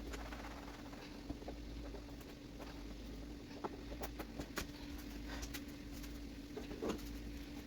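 Scattered light knocks and clicks of household cleaning, as a table and chairs are wiped down, over a steady low hum.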